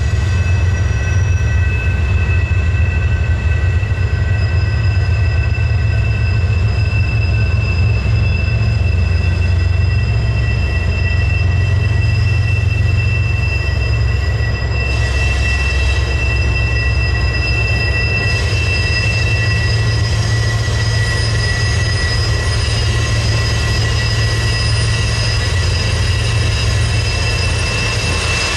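Freight train rolling slowly past: a steady, heavy low rumble from the train with several high, sustained wheel-squeal tones held over it, one squeal fading about two-thirds of the way through while another grows stronger.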